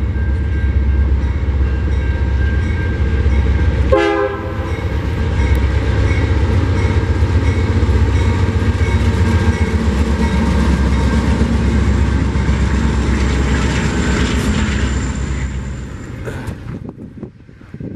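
BNSF freight train led by GE Dash 9 diesel locomotives passing close: heavy diesel engine rumble and wheels clattering on the rails, with the air horn sounding. The sound drops away sharply about two seconds before the end.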